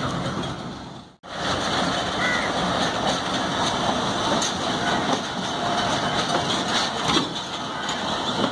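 Passenger coaches of a train rolling past along the rails, a steady rumbling rattle with occasional clicks from the wheels and couplings. The sound cuts out briefly about a second in.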